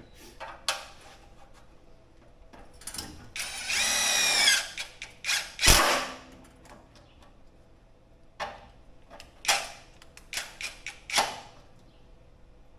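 Power drill running in one short burst of about a second, its whine wavering in pitch, followed by a loud knock and scattered clicks and taps of tools and parts being handled.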